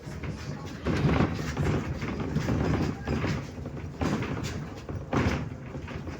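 Interior ride noise of a MAZ-105 articulated city bus under way: a continuous engine and road rumble that rises and falls, with a few sharp rattling knocks from the body about four to five seconds in.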